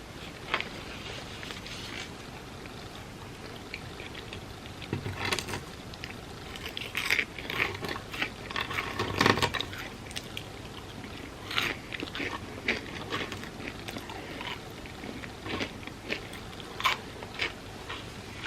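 Close-miked eating of crispy fried food: bites crunching through a crisp coating, then chewing, with the crunching densest about halfway through.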